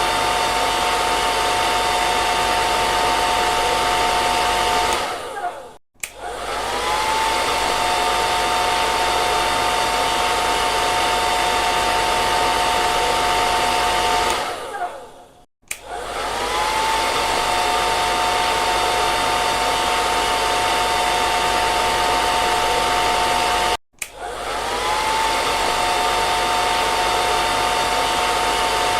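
Electric hair dryer running, a steady rush of air with a high motor whine. It drops out three times; the first two times it fades away, the last time it stops abruptly. Each time it comes back, the whine rises as the motor spins up again.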